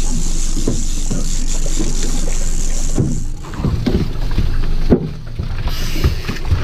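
Boat motor running with wind rushing over the microphone. About three seconds in, the steady hiss drops away and uneven gusts and low knocks on the microphone take over.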